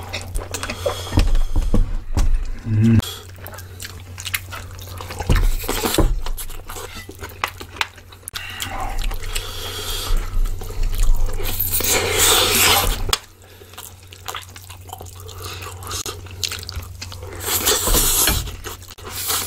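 Close-miked mukbang eating sounds: wet chewing and mouth noises of bibimbap and kimchi stew, with short clicks of wooden spoons against a glass bowl and a metal pan. There are two longer, noisier stretches, about twelve seconds in and near the end. A low hum underneath cuts out about two-thirds of the way through.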